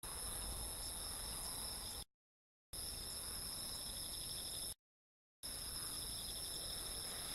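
Chorus of night-singing insects, a steady high shrill trill sped up fourfold so that it sounds hurried. The sound cuts out completely twice for about half a second and comes back.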